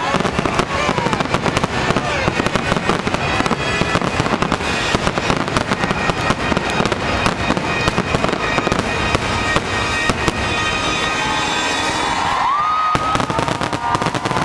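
Fireworks bursting in a dense, continuous barrage: rapid overlapping bangs and crackling with no gap between them.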